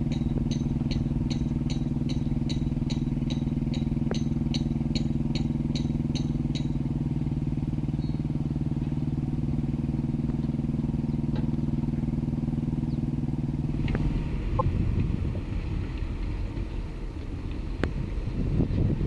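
Diesel engine of heavy construction machinery running steadily, with a fast high beeping of about two beeps a second that stops about six seconds in. About fourteen seconds in, the steady hum gives way to a rougher, uneven rumble with some wind noise.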